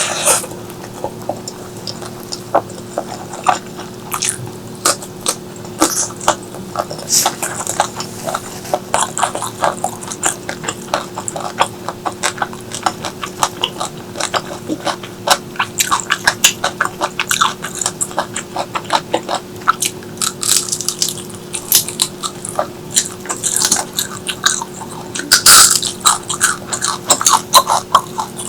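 Close-miked eating: irregular wet chewing, smacking and biting clicks, with a louder cluster near the end. A steady low hum runs underneath.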